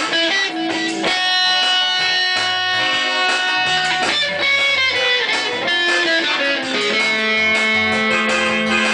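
Guitar music, likely electric: plucked notes and chords ringing on, with a low note held from about seven seconds in.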